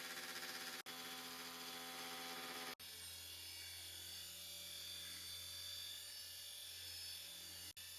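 Small electric motor in a toy buzzing and whirring steadily. About three seconds in it cuts out abruptly and changes to a lower, steadier hum with a thin high whine.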